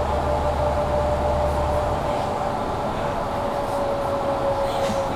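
Mercedes-Benz Citaro C2 G articulated bus heard from inside while driving. Its drivetrain runs with a steady whine that slowly sinks in pitch, and a low engine rumble drops away about two seconds in.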